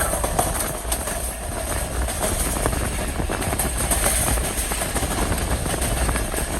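Passenger train running along the track: a steady rumble of wheels on rails, with frequent small clicks and rattles.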